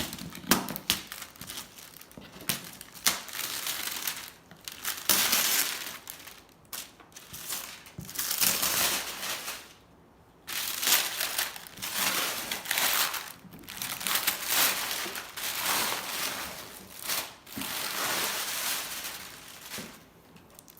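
Packaging being handled while a vacuum cleaner is unboxed: irregular bursts of crinkling and rustling, with short pauses between them.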